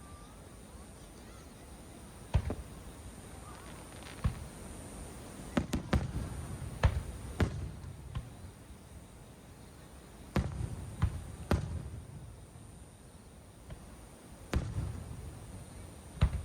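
Aerial fireworks bursting in an irregular series of sharp bangs, several in quick clusters, each followed by a low rumbling echo.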